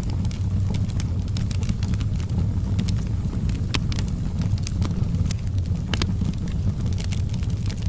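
Wood fire burning in a fireplace: a steady low rumble of flame with irregular sharp crackles and pops of burning wood, a few louder pops scattered through.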